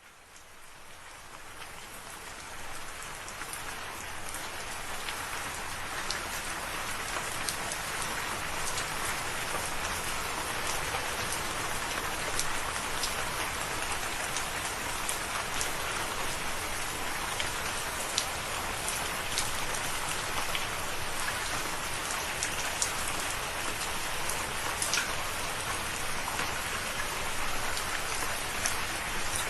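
Steady rain falling, with many scattered sharp drop taps over an even hiss; it fades in from silence over the first few seconds and then holds steady.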